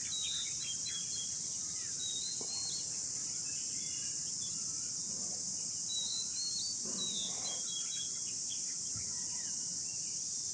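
A steady high-pitched insect drone, the loudest sound, with short scattered whistled notes of an oriental magpie robin singing over it.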